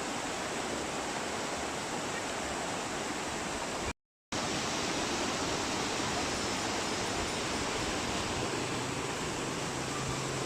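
Waterfall rushing as a steady, even roar of falling water. It cuts out for a moment about four seconds in, and a faint low hum joins near the end.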